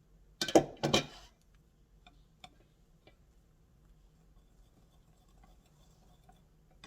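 Two short noisy bursts close together about half a second in, followed by a few faint light clicks: household objects being handled.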